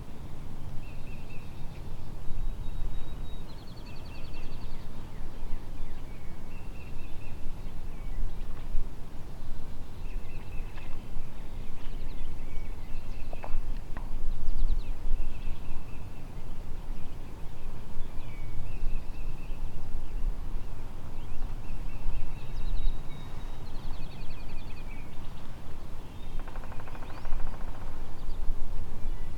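A songbird singing the same short high phrase over and over, about once every two seconds, over a steady low rumble.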